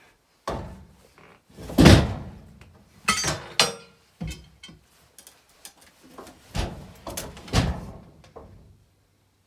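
Irregular heavy thumps and knocks, about eight in all, the loudest about two seconds in, with a short scraping clatter around three seconds in.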